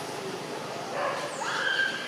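A monkey's short, high-pitched cry, held on one pitch for about half a second near the end, over steady background noise.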